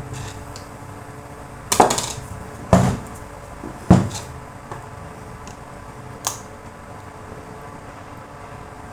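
Hard knocks and clatter of tools or the grinder being handled and set down on a work surface: three loud knocks about a second apart, then a lighter one a couple of seconds later, with small ticks between.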